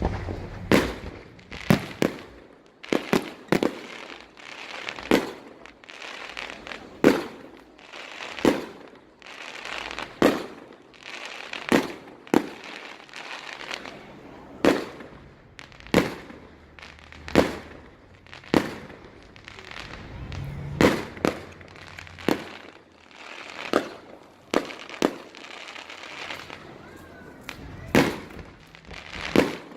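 Aerial fireworks bursting in a steady barrage, a sharp bang every second or so with crackling between the bursts.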